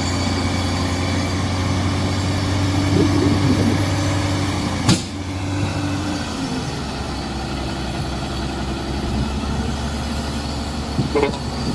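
Heavy diesel engine of earthmoving machinery running steadily, with a sharp knock about five seconds in, after which the engine settles to a lower note. Faint metallic squeaks come and go.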